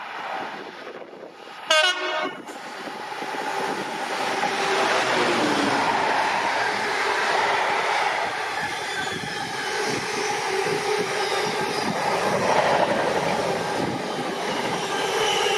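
A train on the main line gives a short horn blast about two seconds in. The noise of the train passing then builds and carries on steadily.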